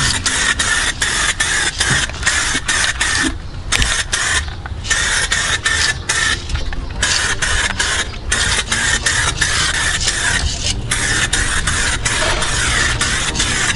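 Aerosol spray can of clear coat hissing in long passes, with short breaks between passes.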